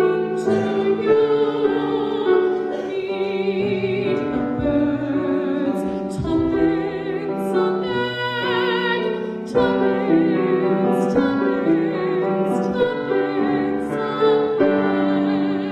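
Classical-style singing with a wavering vibrato on held notes, over piano accompaniment.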